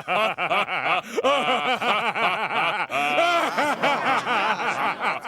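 Two cartoon alien voices laughing together in long runs of rapid, repeated "ha-ha" pulses.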